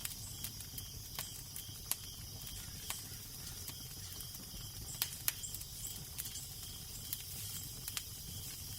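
Fireplace fire crackling, with sharp irregular pops over a steady low wind rumble and hiss; the strongest pops come about two and five seconds in.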